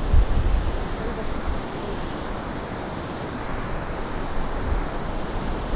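Ocean surf breaking and washing on a sandy beach, a steady rushing wash, with wind buffeting the microphone in low rumbles near the start.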